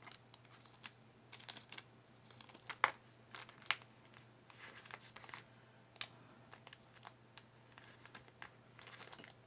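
Small clicks, taps and light crinkling from earrings being handled and set down, with two sharper clicks about three seconds in.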